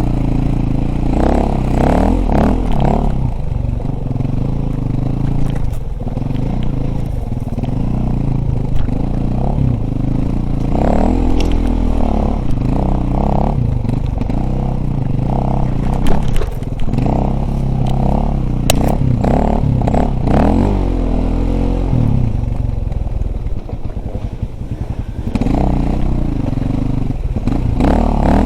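Dirt bike engine being ridden hard, its pitch rising and falling again and again as the throttle opens and closes, with frequent knocks and rattles.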